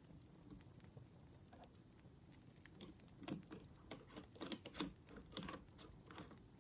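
Wood fire crackling faintly, with scattered sharp pops and a denser run of louder crackles in the middle.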